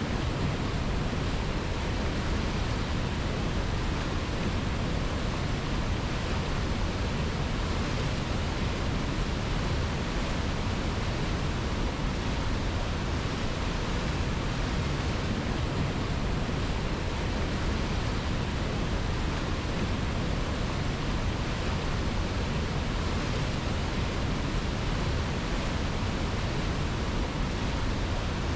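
Steady, unbroken rushing of a flowing river, an even wash of water noise that does not change.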